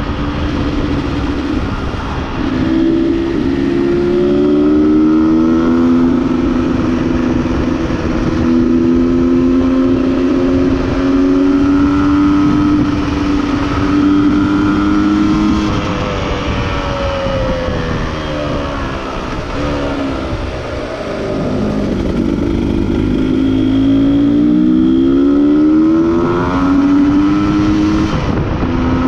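Two-stroke Beta RR enduro motorcycle engine under way. Its pitch climbs and holds through the gears, drops off and winds back down about two-thirds through, then rises again under acceleration.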